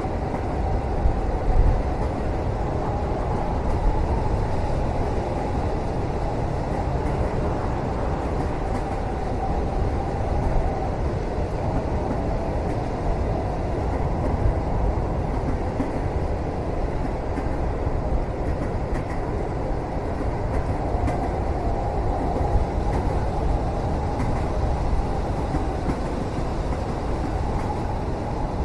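A moving passenger train heard from inside its cabin: a steady, deep rumble with a few faint ticks.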